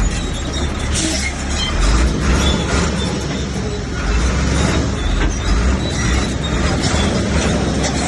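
Heavy diesel earthmoving machine running with a steady low rumble, with scattered metallic clanks throughout.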